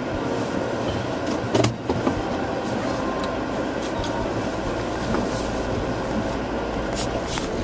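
2010 Jeep Wrangler Sport driving on a snowy road, a steady run of engine and tyre noise. There is a loud knock about 1.7 s in and a few sharp clicks near the end.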